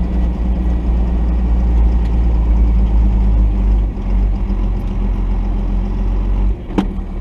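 1990 Dodge D250's Cummins turbo-diesel six running at low speed as the truck crawls the trail, a steady deep rumble that eases a little about four seconds in and again near the end. A short sharp knock sounds just before the end.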